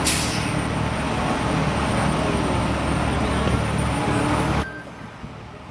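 Steady low vehicle-engine rumble mixed with street noise, opening with a brief hiss and dropping off sharply about four and a half seconds in.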